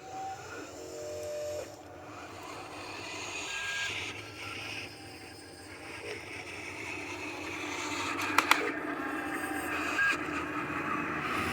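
Dump truck engine running steadily, slowly getting louder, with two sharp clicks about eight seconds in.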